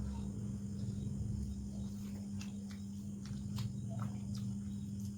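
Mouth sounds of someone eating chicken and rice: scattered soft smacks and clicks of chewing, over a steady low hum.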